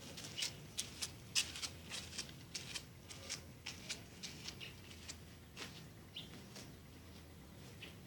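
A pet cat at play, making quick irregular scratchy clicks and rustles, like claws and paws scrabbling at a toy or surface. They come thick for about five seconds, then thin out to a few scattered ticks.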